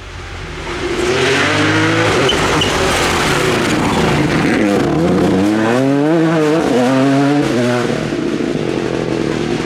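Rally car engine driving hard past on a stage, swelling in about a second in, its pitch dipping and climbing again around the middle as it lifts and changes gear, then fading near the end.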